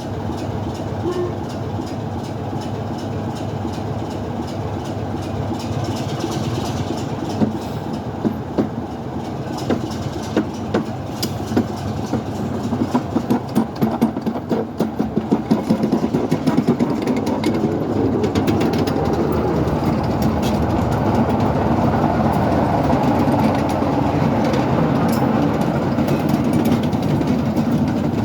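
Railway locomotives moving during a run round, a continuous mechanical running sound that grows louder. About halfway through there is a stretch of regular beats a few times a second, and the sound then holds at its loudest.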